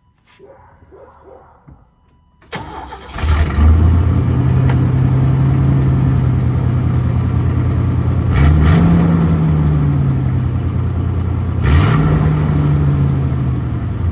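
1993 Chevy S10's 4.3-litre V6 starting up about two and a half seconds in, then idling with a deep, steady exhaust note. It is revved briefly twice, the pitch rising and falling back to idle each time.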